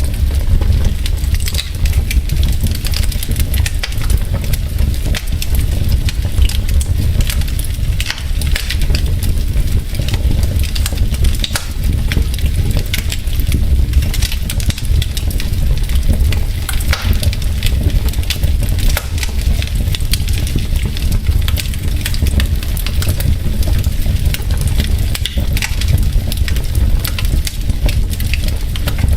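Wood logs burning in a fireplace, crackling with frequent irregular pops and snaps over a steady low rumble.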